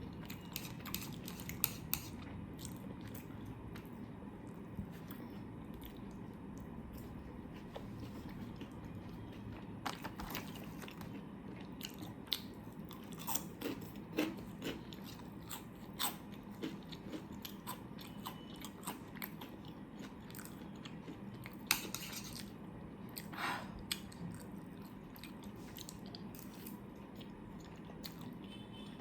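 Close-miked chewing and biting of food, with scattered sharp mouth clicks at irregular intervals.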